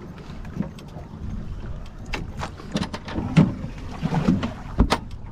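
A striped bass and tackle being handled as the fish comes aboard a boat: irregular knocks and clatter, with one sharp thump near the end, over low wind rumble on the microphone.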